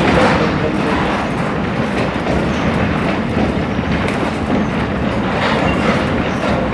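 Passenger coach running along the track, heard from on board: a steady noise of steel wheels on rails and the moving car.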